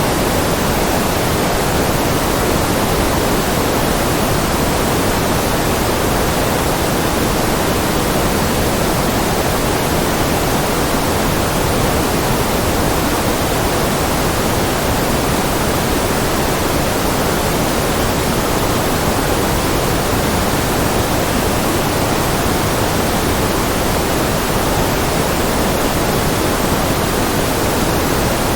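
Continuous generated white noise: a steady, unchanging hiss spread across all pitches, somewhat fuller in the low and middle range than at the top.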